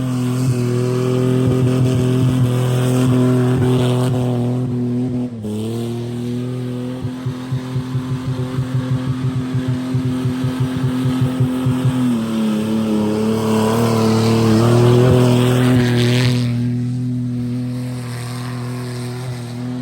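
Car V8 engine held at high, steady revs, its pitch dipping briefly twice before climbing back. For several seconds in the middle the sound pulses about five times a second, as if bouncing off the rev limiter.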